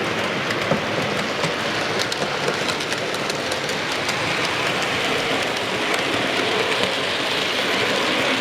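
Model railway train running along the layout's track: a steady whirring rumble of the locomotive's motor and rolling wheels, with many small irregular clicks from wheels crossing rail joints and points.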